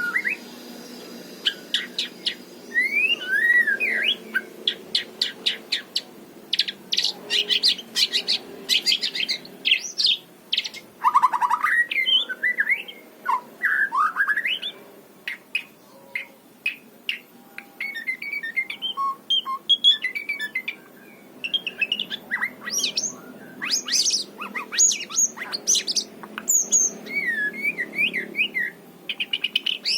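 White-rumped shama singing a varied song of short phrases: whistled notes sweeping up and down, mixed with runs of quick, sharp clicking notes, with brief pauses between phrases.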